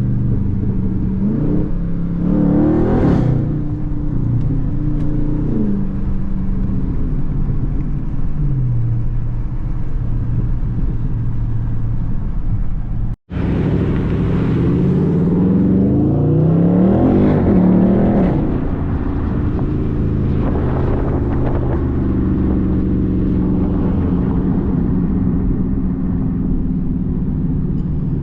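A car engine running hard through several pulls, its pitch rising as it accelerates and then falling back. The sound cuts out for an instant about halfway through.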